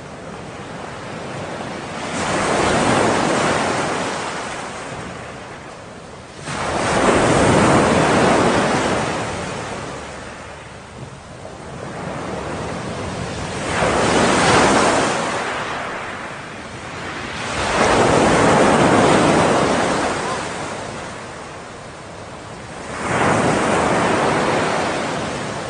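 Ocean surf: waves breaking and washing in, five surges that each swell and fade over a few seconds.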